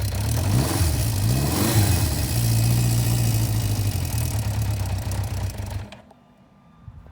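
Honda CB550K's air-cooled inline-four engine revving up and down twice, then running steadily, and switched off about six seconds in, cutting off suddenly.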